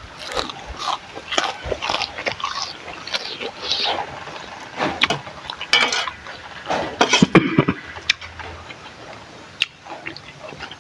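Eating sounds: utensils clicking against a bowl, with chewing.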